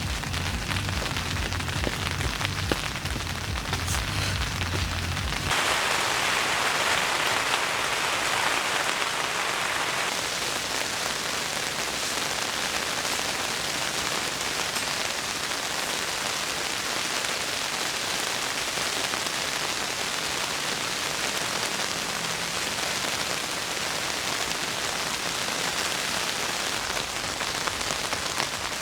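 Heavy rain falling steadily, a dense even hiss. A low hum under it stops abruptly about five seconds in.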